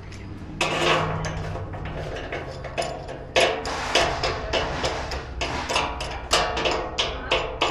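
Grill parts being handled during assembly: a scraping, clattering stretch, then irregular sharp knocks and clanks about two to three a second.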